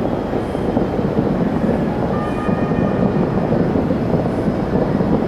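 Distant fireworks barrage: many overlapping bursts merging into a continuous low rumble, with no single bang standing out.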